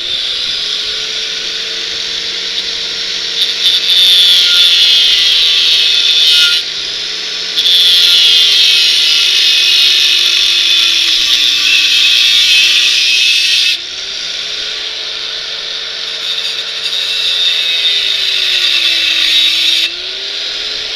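Electric angle grinder cutting through a steel bicycle frame: a steady motor whine that sags in pitch when the wheel is pressed into the metal and recovers as it eases off, under a loud grinding hiss that is heaviest in two long stretches in the first two-thirds and lighter near the end.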